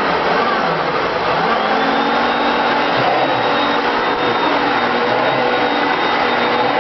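Hoover Concept One upright vacuum cleaner running, a steady whining motor hum. About a second in, its pitch dips briefly and comes back up.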